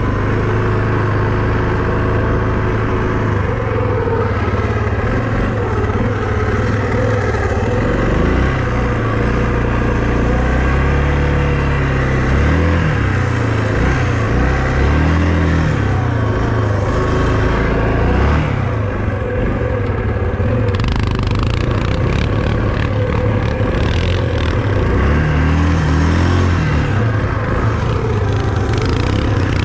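Small vehicle engine running hard, its pitch rising and falling again and again as the throttle is opened and eased off.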